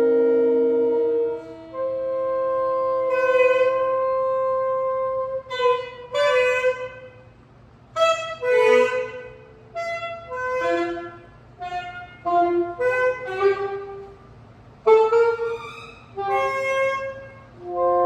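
Saxophones playing free-improvised music: long held notes for the first few seconds, then a run of short, separate notes and brief phrases with small gaps between them.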